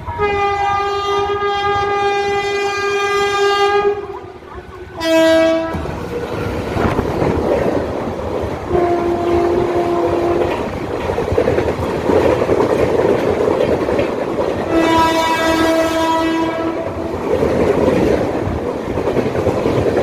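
Express train with a WAP4 electric locomotive sounding its horn in a long blast and then a short one as it approaches at speed. Then the LHB coaches pass close by with a loud, steady rumble and wheel clatter over the rail joints, and the horn sounds twice more, about 9 and 15 seconds in.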